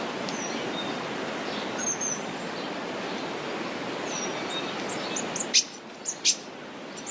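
Small birds chirping: short, high, falling chirps scattered through, and a few sharp, louder chirps near the end. Under them runs a steady rushing background noise that drops away about five and a half seconds in.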